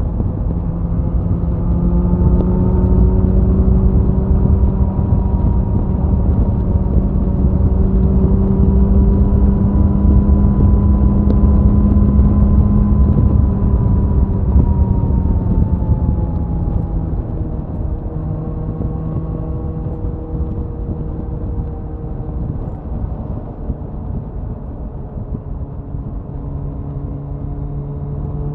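Suzuki Hayabusa's inline-four engine and exhaust at highway cruising speed, with wind rushing over the bike. The drone rises slightly, then falls in pitch and loudness about sixteen seconds in as the revs come down, and holds lower to the end.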